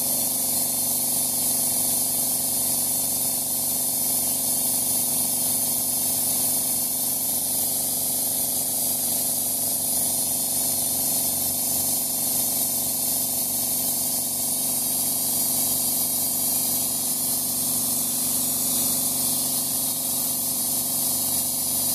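Powered paint sprayer spraying fence paint without a break, a steady spray hiss over a constant motor hum.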